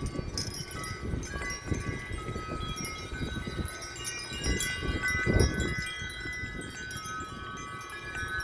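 Several wind chimes ringing in strong gusty wind, many overlapping tones struck again and again. Wind buffets the microphone in low rumbling gusts, the strongest a little past the middle.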